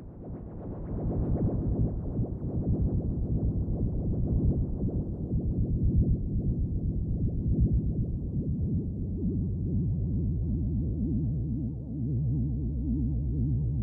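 Low electronic drone of synthesizer-like tones, swelling in over the first couple of seconds and then holding steady with a fluttering pulse.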